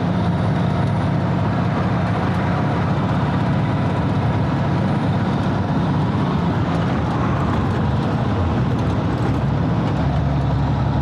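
A 1985 Freightliner cabover's diesel engine running steadily, its low note changing near the end.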